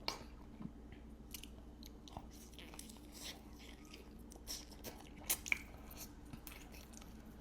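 A person chewing food close to the microphone: faint wet mouth clicks and smacks, scattered and irregular, with two sharper clicks a little after five seconds in.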